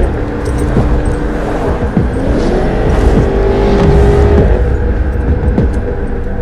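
Car engine running and pulling harder as the car accelerates, its note stepping up in pitch about two seconds in and again near the end, over a heavy rumble of road noise, heard from inside the car.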